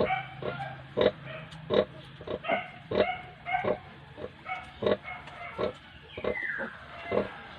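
A nursing sow and her piglets: short grunts repeated about one or two a second, mixed with higher piglet squeals. About six seconds in, one squeal slides down in pitch.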